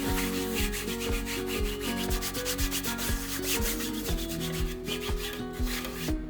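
Quick, even rubbing strokes, like scrubbing or grating, over background music.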